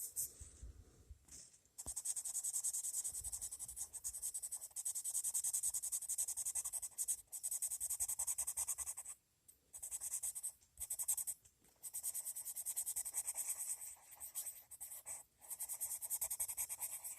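Coloured pencil scratching across paper in quick back-and-forth shading strokes, laid on lightly, in several runs broken by short pauses.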